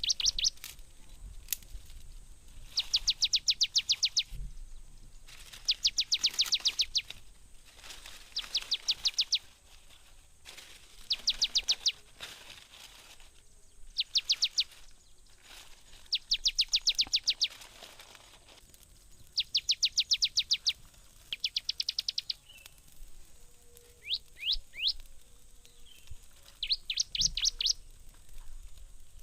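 A bird singing in short rapid trills of high, quick notes. Each trill lasts about a second and is repeated every two to three seconds.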